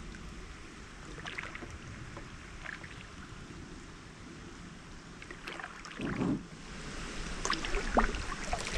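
A kayak sitting on a shallow stream: low water noise with scattered light knocks, and a dull bump about six seconds in.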